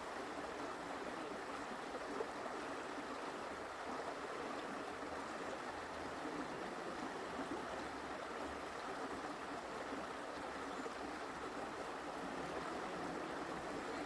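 Forest creek flowing and babbling steadily.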